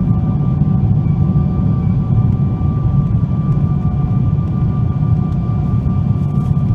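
Boeing 777-200ER's GE90 turbofan engines heard from inside the cabin: a steady, loud rumble with a few steady whining tones above it, holding even throughout.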